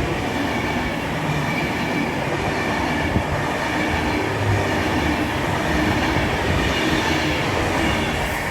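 Class 390 Pendolino electric train passing through the station at speed: a loud, steady rush of wheels on rail and air.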